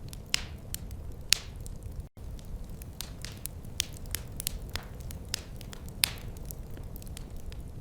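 Wood fire burning in a fireplace: irregular crackles and sharp pops over a steady low rumble of the flames, with a brief cut-out about two seconds in.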